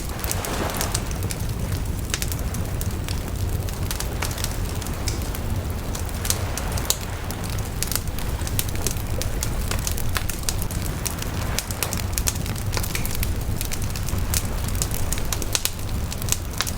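Wood fire crackling and popping: many sharp irregular cracks over a steady low rumble.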